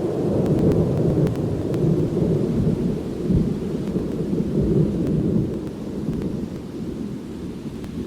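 A long roll of thunder that rumbles on and slowly fades toward the end, over light rain.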